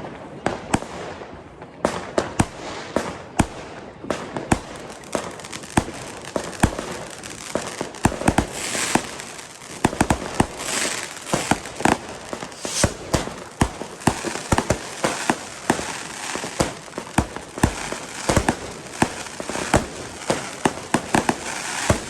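Fireworks going off all around: a dense, irregular string of firecracker bangs and rocket reports, with crackling hiss in between.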